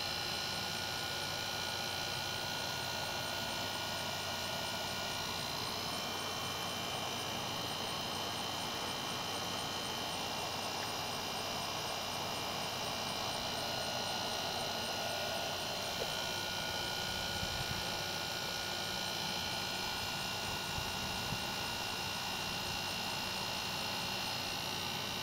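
A steady mechanical hum with several faint steady tones in it, unchanging throughout, with a few faint ticks near the middle.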